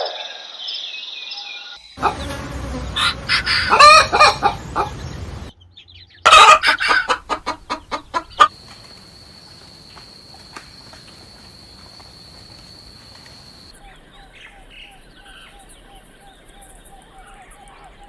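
Chickens clucking and a rooster crowing, in several short cuts: loud bursts of calls in the first half, then quieter, with a thin steady high tone for about five seconds and soft rapid clucks near the end.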